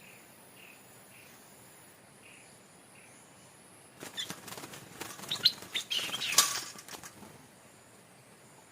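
A bird's wings flapping and rustling for about three seconds, starting about four seconds in, with a few short chirps mixed in. Before that, faint soft bird calls repeat at an even pace.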